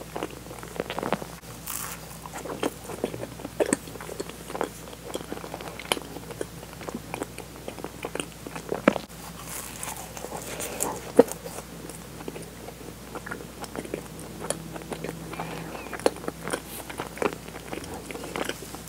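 Close-miked chewing and wet mouth clicks of someone eating a soft, sugar-dusted donut filled with cream and sweet bean paste, with a bite into the dough. The small clicks come irregularly and often, with a couple of louder ones in the middle.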